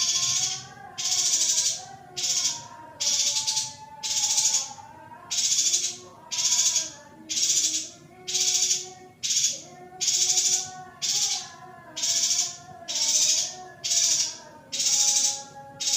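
Female yuhina giving a harsh, hissing call over and over in a steady rhythm, about three calls every two seconds, with fainter wavering tones underneath.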